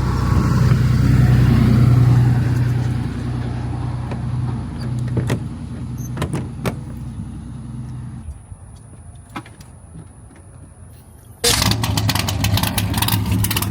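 A car engine running steadily, fading away after about eight seconds with a few light clicks. About eleven seconds in, the sound jumps abruptly to a louder, steady engine and road sound from a car on the move.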